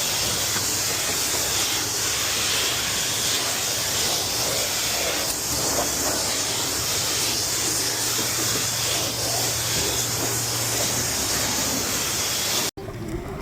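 High-pressure wand at a self-serve car wash spraying rinse water onto a car: a steady hiss of spray with a low hum beneath it. It cuts off abruptly near the end.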